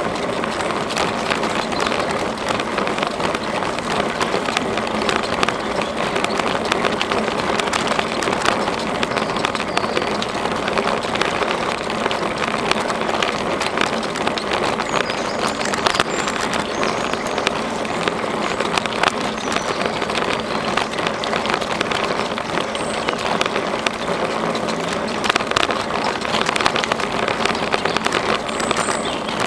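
Steady rolling noise of a bicycle being ridden along a trail, with frequent small rattles and clicks.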